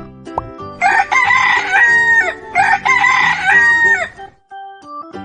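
Rooster crowing twice, each crow about a second and a half long.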